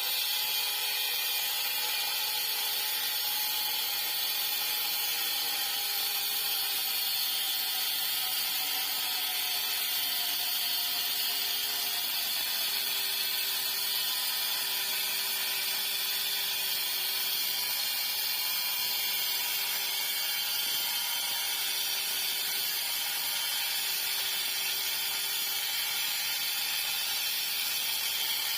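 Handheld power tool running continuously while working the metal of a motorcycle exhaust silencer being hollowed out. Its whine shifts slightly in pitch under load, over a steady hiss.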